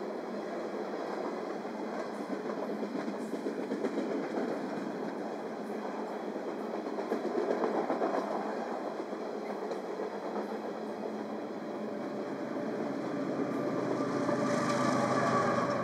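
Freight train cars rolling past on steel rails, with a steady rumble and the clicking of wheels over rail joints. A pitched whine comes in near the end as the sound grows brighter.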